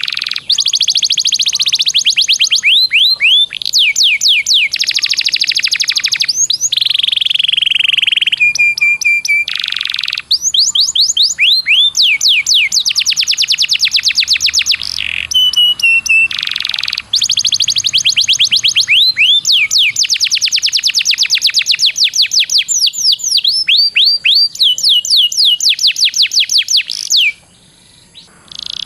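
Songbird masteran recording: a small bird singing long, rapid rolling trills of fast repeated sweeping notes, broken by short pauses and a few held whistles, with a brief gap near the end.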